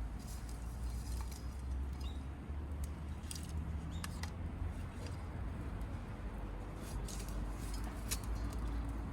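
Outdoor ambience: a steady low rumble like wind on the microphone, with scattered sharp clicks and crackles and a few brief high bird chirps.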